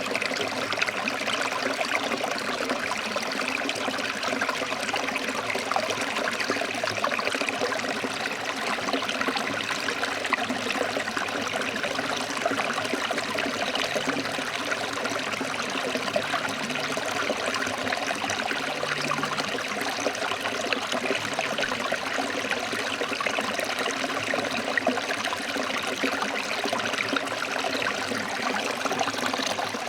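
Forest stream flowing over rocks: a steady, even rush of splashing water.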